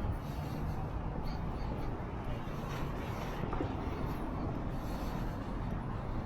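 Steady outdoor traffic rumble and background noise, low and even, with no single event standing out.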